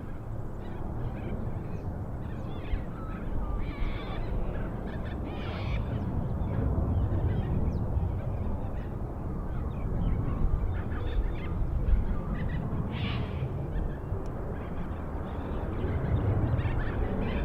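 Birds calling in short scattered calls over a steady low rumble.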